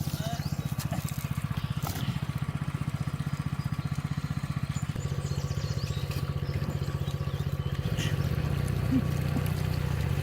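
A small engine running steadily with a fast, even pulse, growing a little louder about halfway through and again near the end.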